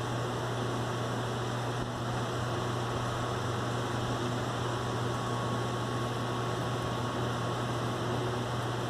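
Steady hiss with a constant low hum and a faint steady high tone underneath. No thunder claps or other distinct events.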